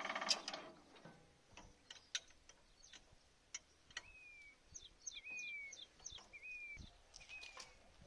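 Birds calling: short whistled notes that fall slightly in pitch, repeated about once a second in the second half, with higher quick chirps among them. Before that, a few sharp clicks and knocks while the plough is being hitched.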